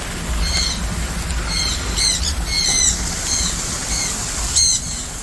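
Aviary birds giving short, repeated chirping calls, about ten across a few seconds, the sharpest one near the end, over a low steady rumble.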